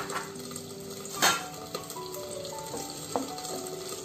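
Onion and tomato paste frying in a nonstick pan, a steady sizzle, with one sharp knock about a second in. Soft background music with held notes plays along.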